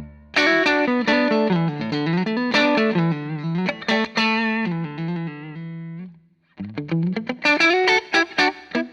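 Electric guitar through an EarthQuaker Devices White Light overdrive pedal at low gain, gain and weight knobs both at 9 o'clock, into a Hughes & Kettner Tubemeister tube amp, lightly distorted. A held chord gives way to a run of picked notes and chords; playing stops briefly about six seconds in, then starts again.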